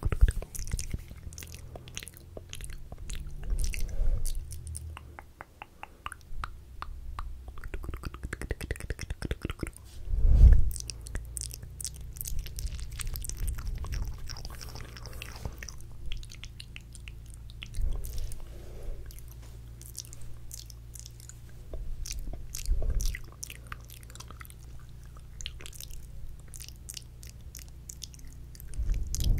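Close-miked ASMR mouth sounds: a dense run of quick wet clicks and smacks, with a few low thumps, the loudest about ten seconds in and others around eighteen and twenty-three seconds.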